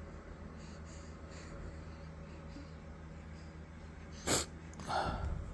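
A five-week-old baby feeding from a formula bottle, with faint soft sucking noises. About four seconds in comes one short sharp snort through the nose, and a brief noisy grunt follows just before the end.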